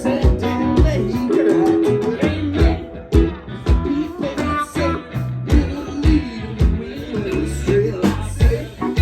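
Live band playing an upbeat calypso song with guitar, bass and a steady drum beat.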